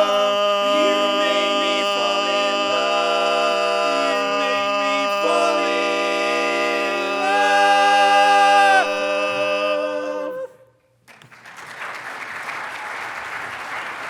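Barbershop quartet singing a cappella, sustaining the song's final held chords in four-part harmony, with the top voice rising to a ringing high note before the chord cuts off about ten seconds in. Audience applause follows.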